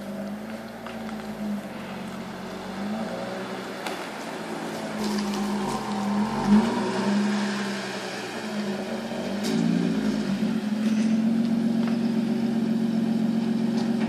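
Lotus Evora's 3.5-litre V6 running at low speed as the car creeps forward, its note rising and falling briefly a few times, then settling to a steady, slightly louder run for the last few seconds.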